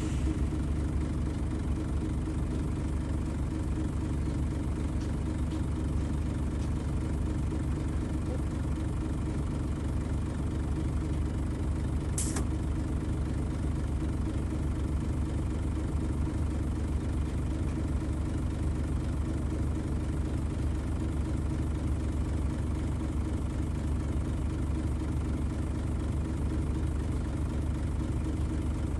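Nissan Diesel FE92TA bus's turbocharged diesel engine idling steadily, a constant low rumble with no revving. A brief hiss comes about twelve seconds in.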